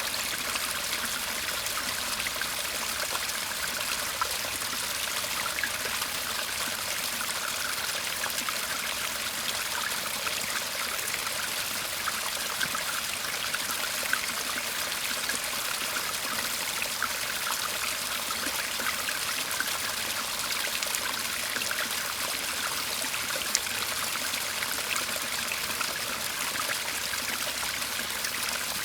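Shallow garden brook (seseragi) murmuring and trickling steadily.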